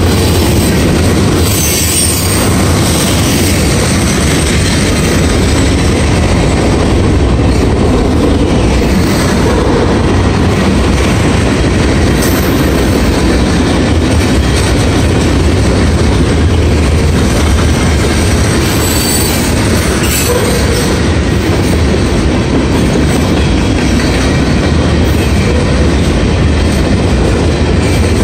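Cars of a Norfolk Southern mixed freight train rolling steadily past, a loud continuous rumble of steel wheels on the rails.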